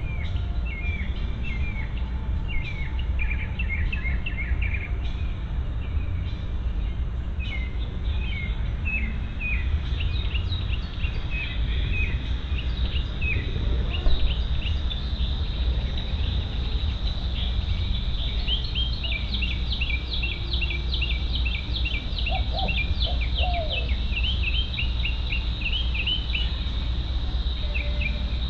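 Songbirds chirping in quick repeated phrases, joined about a third of the way in by a steady high-pitched cricket trill, over a constant low rumble.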